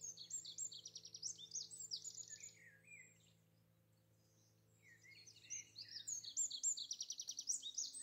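Songbirds singing: quick high chirps and rapid trills in two bouts, with a pause of a second or two in the middle.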